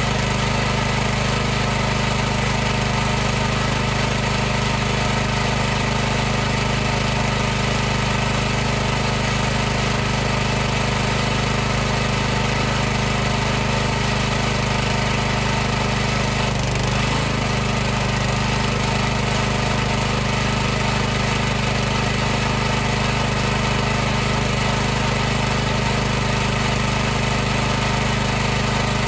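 High-pressure washer's motor and pump running steadily, a low hum of several steady tones with an even hiss over it. The pitch wavers briefly a little past halfway.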